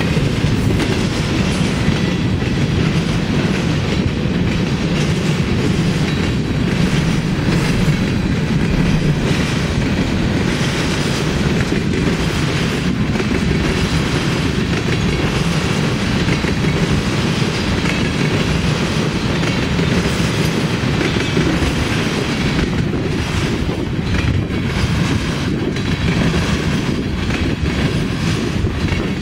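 Freight train cars rolling past close by, double-stack container cars and then tank cars: a steady, loud rumble with wheels clacking over the track.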